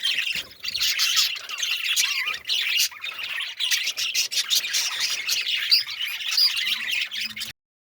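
Many small birds chirping and squawking at once in a dense, continuous chatter, cutting off suddenly near the end.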